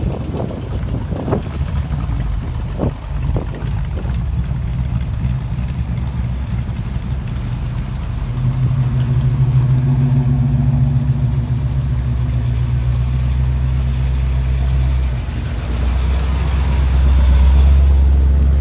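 A car engine running steadily, its low note changing about halfway through and again near the end, with a few knocks in the first few seconds.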